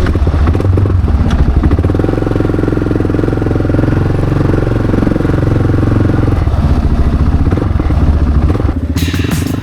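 650 single-cylinder dual-sport motorcycle running loudly through a freshly fitted Delkevic 9-inch slip-on muffler, a steady single-cylinder exhaust note.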